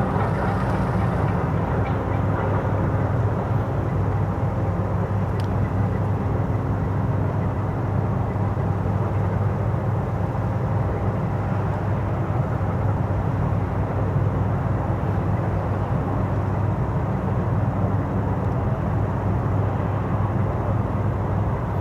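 Cruise ship's machinery running at the quayside: a steady low drone with a constant hum that neither rises nor falls.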